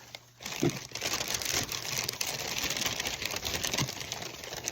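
Packing paper rustling and crumpling as it is handled, a dense crackle that starts about half a second in, with a few soft knocks.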